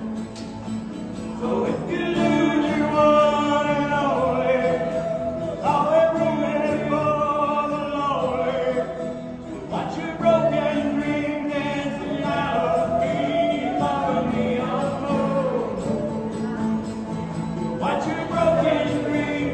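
Live band performing a country song: a sung vocal line with long held notes over steady instrumental accompaniment.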